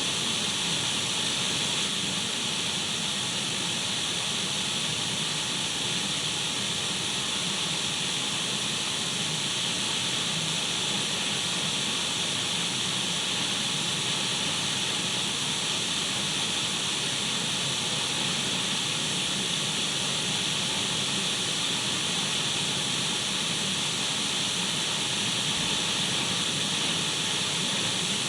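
Radio static: a steady, unchanging hiss of white noise with no tuning sweeps or voices breaking through.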